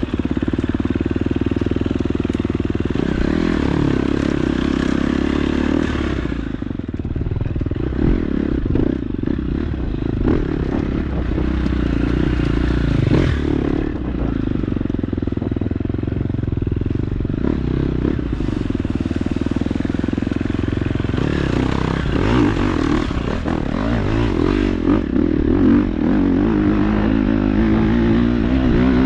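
KTM 250 dirt bike engine running under way on a trail, its pitch rising and falling as the throttle is worked, with some clatter over the ride.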